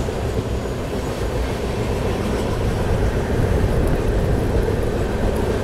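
Double-decker express train running at speed: a steady running noise of wheels on rail, heard from the lower deck inside the coach.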